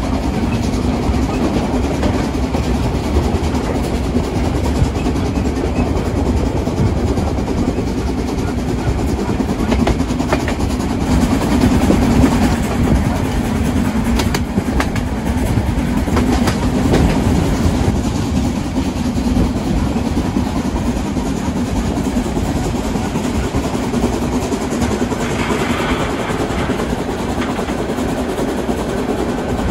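A train rolling along the rails of the Brocken line, with a steady rumble and the clickety-clack of wheels over rail joints.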